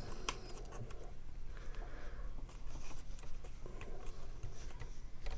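Faint rustling and light scattered clicks of paper cardstock being handled and pressed into place by hand.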